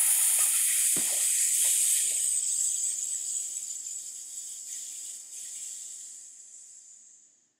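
A person making the long, drawn-out "sss" hiss with the breath: the lung sound of the qigong Six Healing Sounds. It is loudest at first and fades gradually over about seven seconds as the breath runs out.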